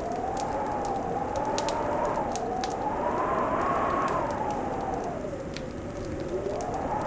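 Wood fire crackling in a fireplace, with irregular sharp pops, over a steady rushing sound whose pitch slowly rises and falls.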